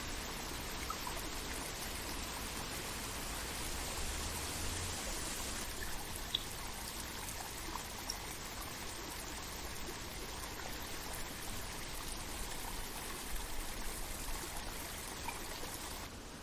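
Running water of a forest stream, a steady rushing trickle with a few faint ticks over it.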